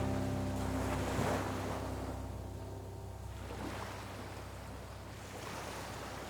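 Ocean surf washing onto the shore, the rush of water swelling about a second in and again near the end, with soft background music fading out underneath.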